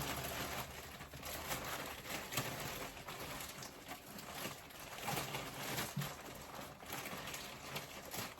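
Plastic courier bag rustling and crinkling in uneven bursts as a boot box is pushed into it.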